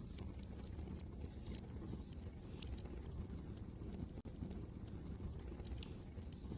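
Wood fire crackling, with irregular sharp pops and snaps over a steady low rumble of wind. The sound drops out for an instant a little past the middle.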